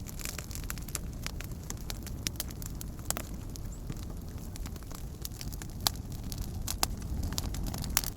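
Wood campfire crackling, with sharp snaps and pops at irregular intervals over a steady low rumble.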